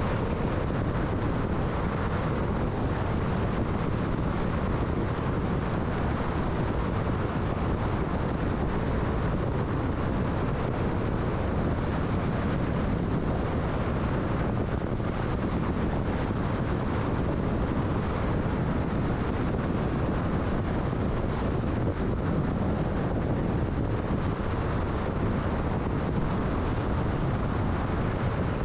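Steady road noise of a car cruising at freeway speed: tyre and wind noise at an even level throughout.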